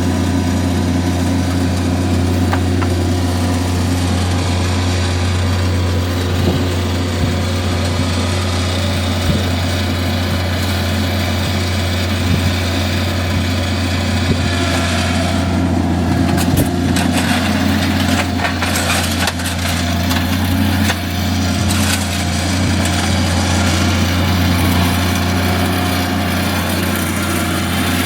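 An engine running steadily with a constant low hum. About halfway through, a few seconds of scattered knocks and clattering are heard over it.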